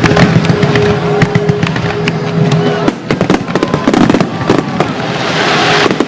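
Fireworks going off in rapid, dense bangs and crackles, with a rushing hiss swelling about two-thirds of the way through. A steady held tone runs underneath for the first half.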